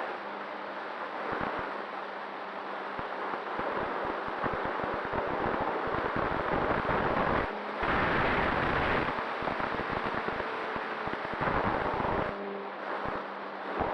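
Wind buffeting the microphone: a rough rushing noise with irregular low gusts and thumps that swell and ease several times, over a faint steady hum.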